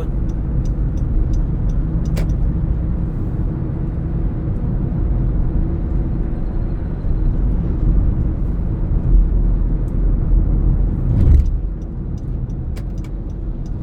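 Road noise inside a moving car: a steady low engine and tyre rumble. A faint ticking comes about twice a second near the start and again near the end. A brief louder whoosh comes about eleven seconds in.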